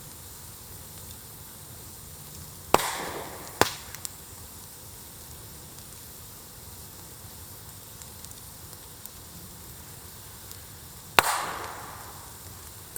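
Bonfire burning on embers, giving sharp loud pops: one about three seconds in followed by two smaller ones, and another near the end, each loud pop trailing off in a short hiss. Faint small crackles in between.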